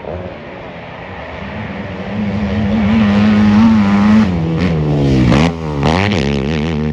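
Racing engine of an off-road motocross machine, growing louder as it nears, then revving hard, its pitch falling and climbing sharply several times in the second half as the throttle is opened and closed.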